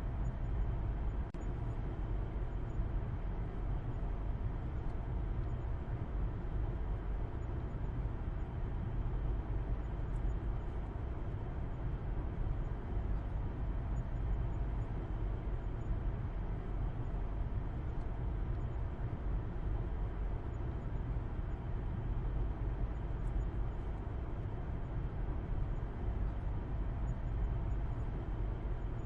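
Car driving at a steady speed: a continuous low rumble of engine and tyres on the road.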